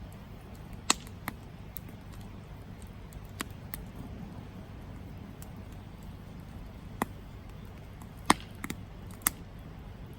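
Wood campfire crackling: scattered sharp pops and snaps, the loudest near the end, over a steady low rumble.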